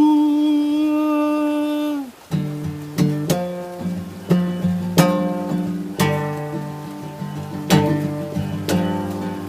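A long held vocal note for about two seconds, then acoustic guitar strumming in an uneven, loose rhythm as the song's intro.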